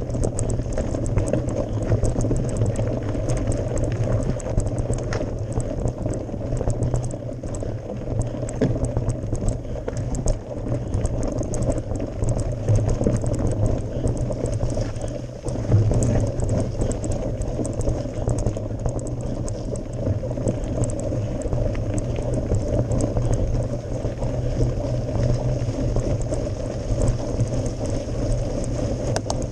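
Mountain bike climbing a gravel forest road: tyres crackling over loose stones, with a steady low rumble.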